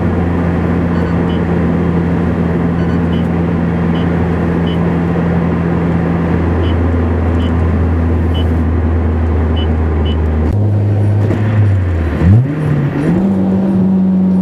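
Supercharged Honda S2000 inline-four, with a Roots blower at 8 psi and a 3-inch dual exhaust, running steadily while driving. Near the end the revs dip sharply and climb to a higher steady pitch, a gear change. Faint light ticks come at regular intervals.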